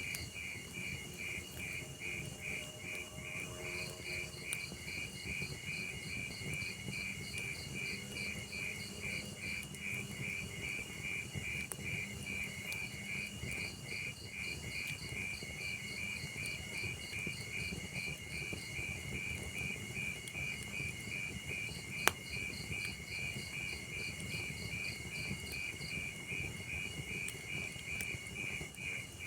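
Crickets chirping in a fast, even pulsing rhythm over the low rumble of a burning log fire. A single sharp pop from the fire comes about three-quarters of the way through.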